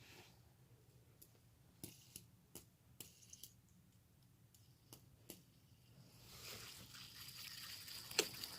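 Faint, scattered clicks and squishes of slime being handled, with a soft hissing rise near the end.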